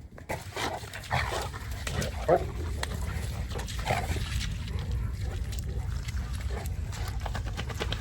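A Boerboel dog making short vocal sounds, several in the first half, over a steady low rumble of wind on the microphone.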